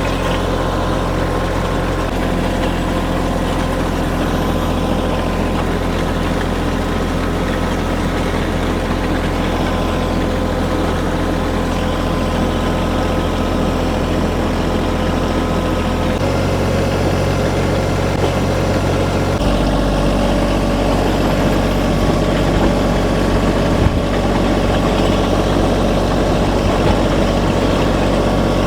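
Compact tractor's diesel engine running steadily under load as it pulls a chain drag over the gravel driveway. The engine note shifts slightly twice, about two-thirds of the way through.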